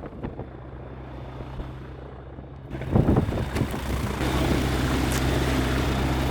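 Light bush plane's piston engine idling with the propeller turning, a steady low hum. About three seconds in it becomes louder and rougher and keeps building.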